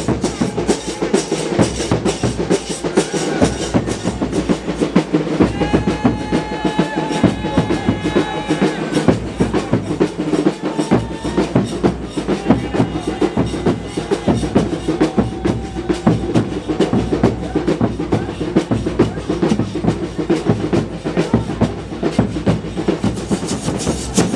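Fast, continuous drumming from a percussion ensemble, with a wind instrument holding pitched notes over it for a few seconds about six seconds in.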